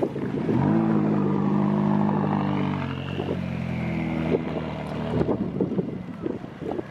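McLaren 570S Spider's twin-turbo V8 pulling away. The engine note climbs sharply about half a second in, holds steady for a couple of seconds, then eases back and fades as the car moves off.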